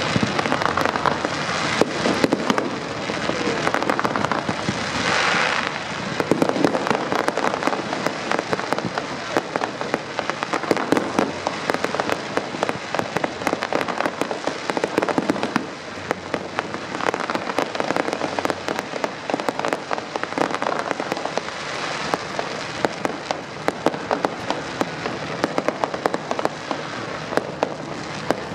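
Fireworks display: a dense, continuous run of cracks and bangs from bursting aerial shells, over the crackling of gold and white crackling stars.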